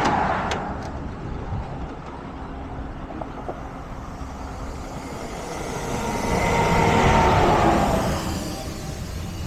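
Steady low engine rumble with road traffic going by: a vehicle passes loudly between about six and eight seconds in, its pitch dropping as it goes by, after another fades away in the first second.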